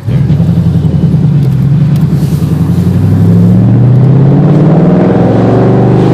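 2013 Mustang 5.0 V8 with Flowmaster Outlaw exhaust, open with no muffler, under acceleration. It comes in loud all at once, and the exhaust note climbs steadily in pitch as the revs build.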